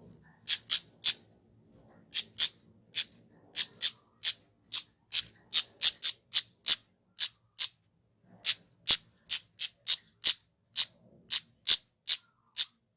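Kemade (flowerpecker) giving a string of short, sharp, high-pitched call notes, about two or three a second, with a short pause about halfway through. This is the bird's call used as a lure to bring other flowerpeckers in and set them calling.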